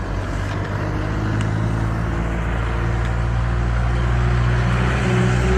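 Engine of a nearby motor vehicle running steadily, a low hum that comes in about a second in and grows a little louder, over road noise.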